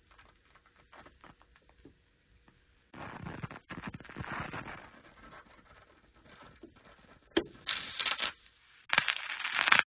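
Scratchy, crackling noise: faint scattered clicks at first, then a burst of scratching about three seconds in, and two louder, harsher bursts near the end.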